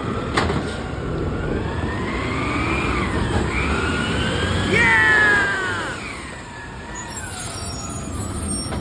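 Garbage truck at work: a low running rumble under a whining tone that rises and falls over several seconds, with a loud falling squeal about five seconds in.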